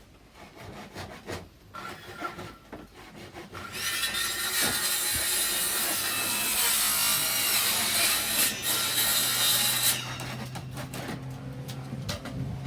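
A saw cutting through a wooden board: scattered knocks as the wood is handled, then about four seconds in a loud, continuous cut lasting about six seconds, which stops abruptly.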